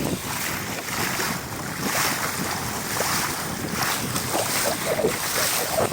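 Wind buffeting the phone's microphone over the rush and splash of water along the hull of a Laser sailing dinghy moving at high speed.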